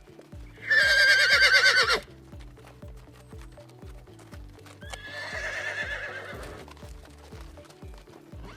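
A horse whinnying twice, a loud wavering whinny about a second in and a fainter, longer one in the middle, over background music with a steady beat.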